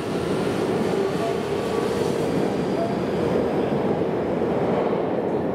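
Tokyu electric commuter train running at a station platform: a steady, loud rumble of wheels on rail and traction motors, with a few brief faint squeals from the wheels.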